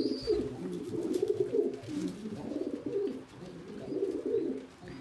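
Several domestic pigeons cooing together, low overlapping coos running on without a break.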